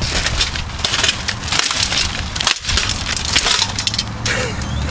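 Holmes HBF2002A plastic box fan being broken up: a dense run of cracking, crunching and clattering as its plastic frame and parts give way.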